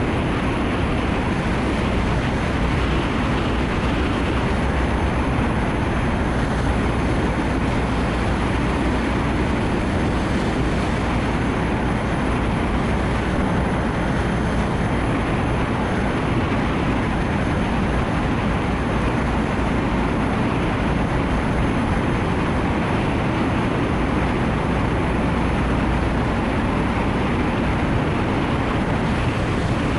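Steady rushing noise of a Nissan Note e-POWER driving on a wet road in heavy rain: tyre spray and road noise with rain and wind, heaviest in the low rumble.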